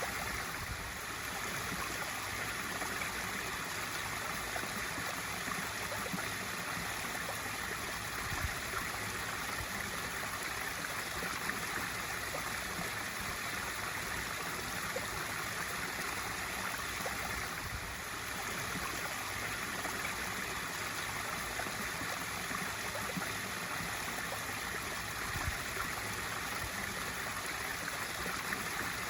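Pool waterfall running: a steady, even splash of water falling into the pool.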